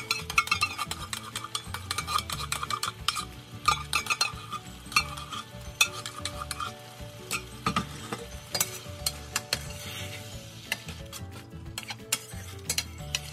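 Utensils scraping and knocking against a stainless steel frying pan as an emptied can of cream of mushroom soup is scraped out over it and the thick sauce is stirred into ground pork, with frequent quick clicks and a sizzle underneath.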